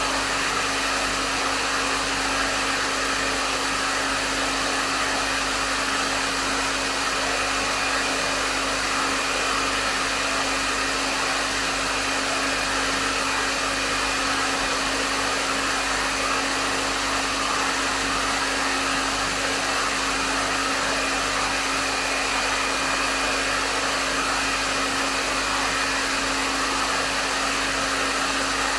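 Hair dryer running steadily: a continuous rush of blown air with a steady motor hum underneath.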